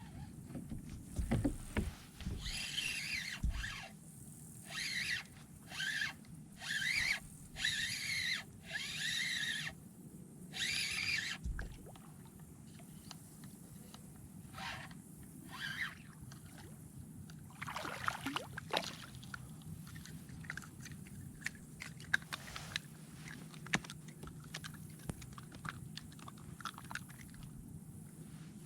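Fishing reel being cranked in short bursts of about a second each, with a whirring, repeating high-pitched pattern. Later come scattered sharp clicks and ticks of tackle being handled in the kayak.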